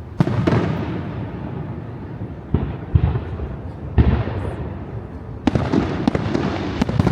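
Aerial fireworks shells bursting: about six sharp booms at uneven intervals of half a second to a second and a half, each trailing off in a low rumble.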